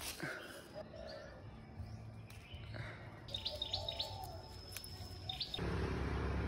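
Small birds chirping, with a quick run of short, high chirps a little past halfway. Near the end a louder, steady outdoor background noise comes in suddenly.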